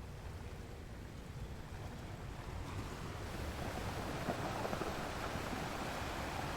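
Ocean surf: a steady rushing wash of waves that swells louder about halfway through as a wave breaks.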